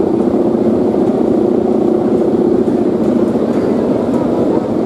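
Bamboo hummers (guangan) on big Balinese kites droning steadily in strong wind, over wind rushing on the microphone.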